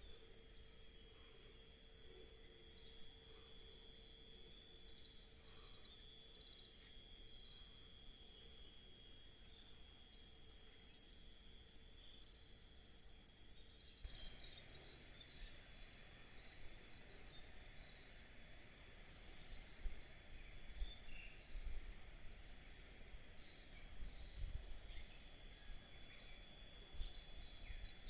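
Faint chorus of wild birds singing and chirping, with many short overlapping calls that grow busier and a little louder about halfway through. A steady thin high tone sounds beneath the calls in the first half.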